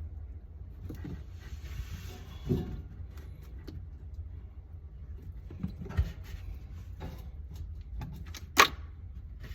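Scattered clicks and knocks from handling refrigerator panels and parts during a repair, over a steady low hum. The loudest is a sharp knock near the end.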